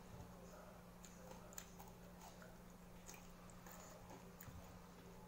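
Faint chewing and scattered small clicks as plastic-gloved hands pick through fresh vegetables in a bowl, over a low steady hum.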